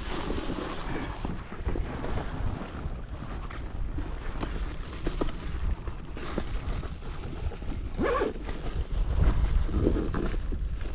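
Wind buffeting the microphone over lapping water, with scattered light knocks and a couple of brief louder rustles.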